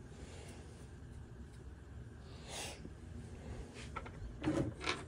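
Faint handling noises of a string trimmer's plastic parts being fitted back together: a brief rustle about halfway through, then a few light clicks and knocks near the end.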